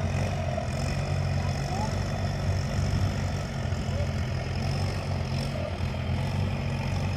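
Diesel engine of a KiHa 183 diesel railcar running steadily with a low, even hum.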